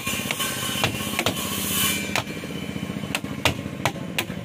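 A small engine running steadily, with sharp knocks every half second to a second.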